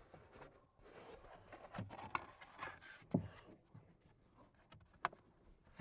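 A knife cutting a notch in styrofoam board: faint scratching and rubbing with a few light knocks.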